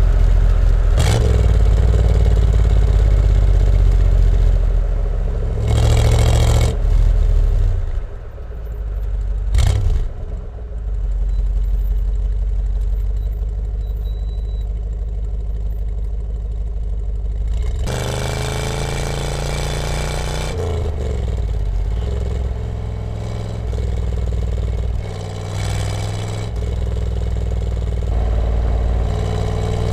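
A 1965 Chevrolet Corvette C2's small-block V8 running on the road with a steady low rumble, and a few short rushes of noise in the first third. About two-thirds of the way through, its pitch falls and then climbs again as the car pulls through the gears.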